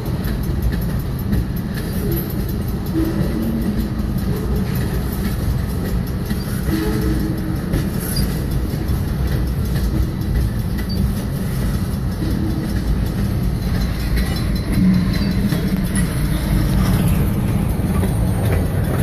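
Freight train's tank cars rolling past at a grade crossing: a steady rumble of steel wheels on the rails, with some clickety-clack over the rail joints.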